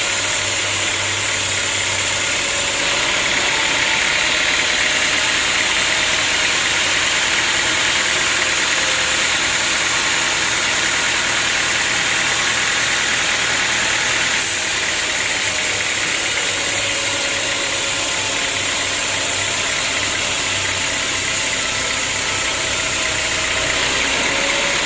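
Sawmill machinery running steadily: a continuous engine-like drone with a steady high whine, shifting slightly a few times.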